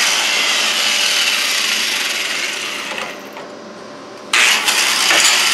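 Power tool working on steel for a winch mount, a steady hissing grind that eases off about three seconds in and picks up again sharply a second later.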